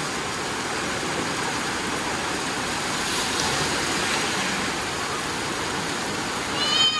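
Steady heavy rain falling and splashing. Near the end comes a brief high-pitched squeal from a child.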